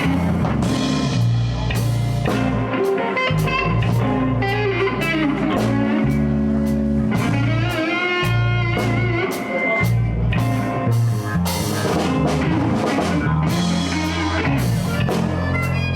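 Live blues band playing an instrumental passage, with guitar to the fore over bass and drums.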